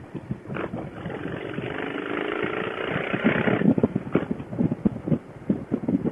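Motorcycle engine heard through a Bluetooth helmet-intercom microphone, its note climbing gently for a few seconds under acceleration, with wind buffeting and crackling on the mic throughout.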